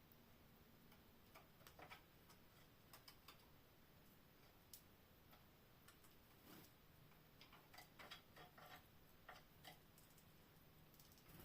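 Near silence with faint, irregular small clicks and taps scattered through it, and a faint low hum in the second half; no birdsong.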